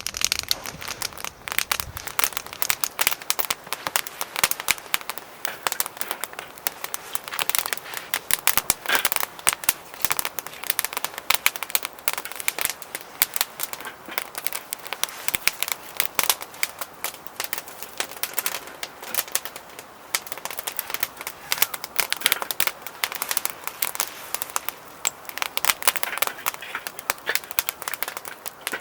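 Wood fire crackling in a Solotour fire pit: a dense, continuous run of sharp pops and crackles.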